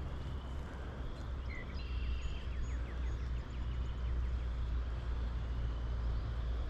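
Strong wind buffeting the microphone, a steady low rumble, with a few faint high chirps about one to three seconds in.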